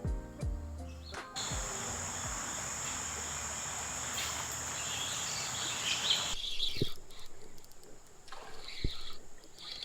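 Background music ends about a second in, giving way to outdoor creekside ambience: a steady rushing noise with a high steady tone and bird chirps. This cuts off abruptly after about six seconds, leaving quieter ambience with a few soft knocks.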